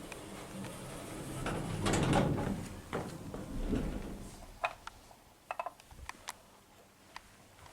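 Otis 2000H hydraulic lift's sliding doors and mechanism moving, followed by several sharp clicks in the second half.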